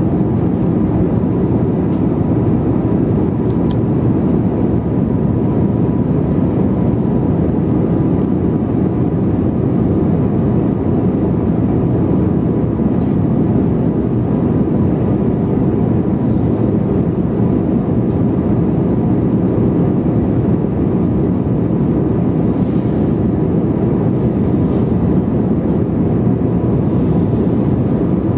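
Airliner cabin noise in flight: a steady, even, low rush with a faint steady tone above it.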